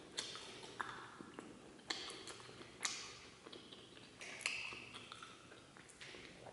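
Close-up mouth sounds of a person eating sliced cold meat: wet lip smacks, mouth clicks and chewing, with about five sharp smacks at uneven intervals.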